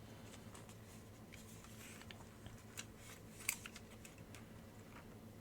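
Faint, scattered small clicks and taps of hands handling the parts of an opened Nintendo DSi, the sharpest about three and a half seconds in, over a faint steady hum.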